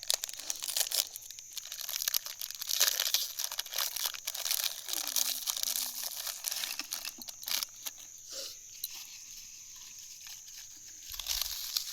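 Crackling, rustling handling noise made of many small sharp clicks, dying down after about eight seconds and flaring briefly again near the end.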